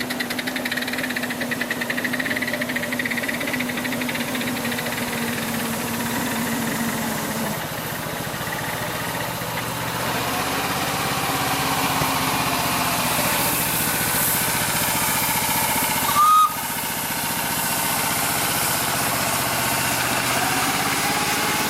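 Miniature railway locomotives running on the track, a steady mechanical running sound whose pitch shifts partway through. About 16 seconds in, a brief loud high note sounds.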